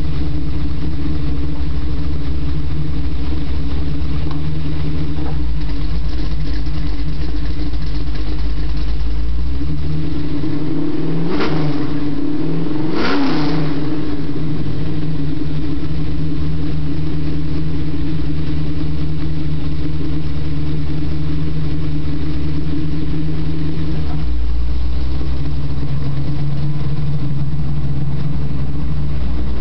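1971 Chevelle's 383 V8 exhaust through long-tube headers, an X-pipe and Spintech Sportsman Street mufflers, idling steadily. Two quick revs come about 11 and 13 seconds in, each rising and falling in pitch, before it settles back to idle.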